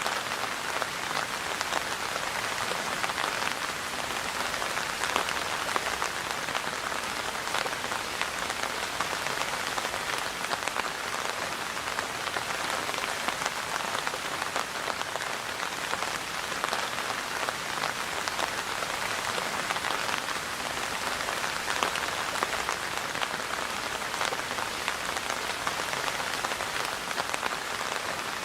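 Steady rain falling, an even hiss made up of many small drop impacts, with no let-up.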